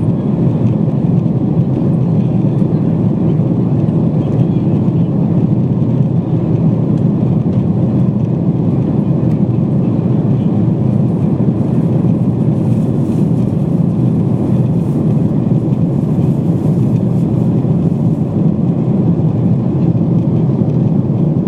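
Steady cabin noise inside a Boeing 777-200 airliner in flight: an even, low rush of engine and airflow noise that holds level throughout.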